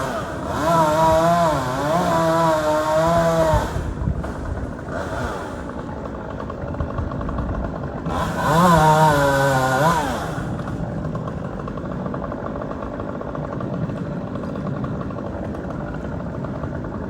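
Chainsaw engine revving in two loud spells, its pitch rising and falling as the throttle is worked, once at the start and again about eight seconds in. Between the spells it drops back to a lower, steadier running.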